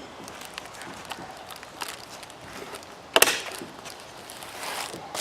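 A staple gun snapping once into wood about three seconds in, among a few lighter clicks and handling noises.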